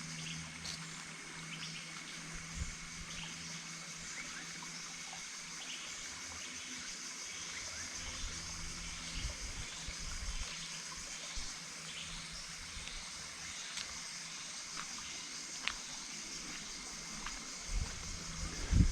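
Waterfall in the dry season, reduced to a trickle: water dribbling and trickling over rocks, steady throughout, with a constant high drone in the background.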